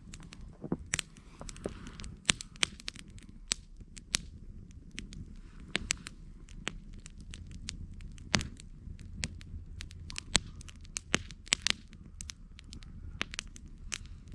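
Campfire burning: wood crackling and popping in sharp irregular snaps over a low steady rush of the flames.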